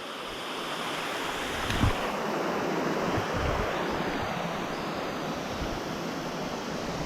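Steady rush of a waterfall, swelling over the first second or so and then holding, with a brief low knock about two seconds in.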